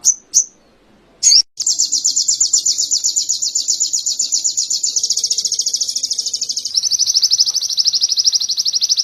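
Little spiderhunter (sogon) singing canary-style song. It gives a few short sharp chips, then from about a second and a half in a long, very rapid high trill that changes pace twice, ending lower and faster.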